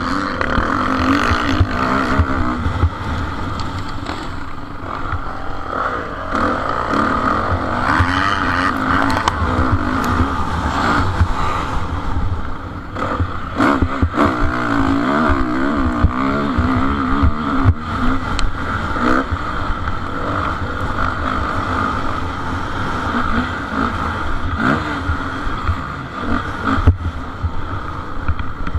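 Motocross motorcycles racing, their engines revving up and down continuously as riders work the throttle around the track, with scattered sharp knocks among the engine noise.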